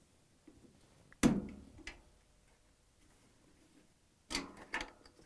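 Flat-blade screwdriver prying open the washer's suspension spring bracket clips: a sharp snap about a second in, a smaller click just after, and a quick cluster of clicks near the end.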